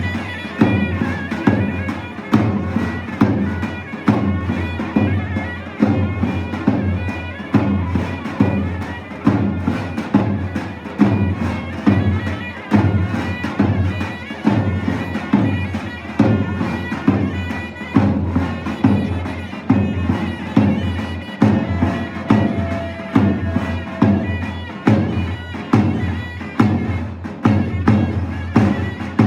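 Turkish folk dance music of davul and zurna: a loud, continuous shrill reed melody over a heavy drum beat striking about once a second, with lighter strokes between.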